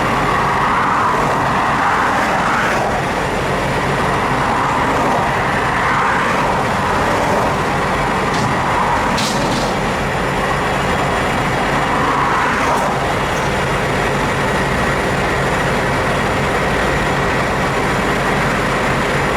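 A truck's engine running steadily with a continuous mechanical rumble, and a few faint clicks about eight to nine seconds in.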